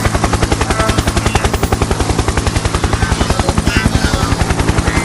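Logo audio put through a heavy 'vibration' effect: the sound is chopped into a fast, even throbbing of about eight pulses a second over a steady low drone, with short pitched fragments flickering above it.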